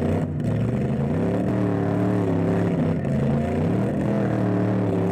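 Truck engines revving hard under heavy load, their pitch rising and falling as they strain against each other in a tug of war.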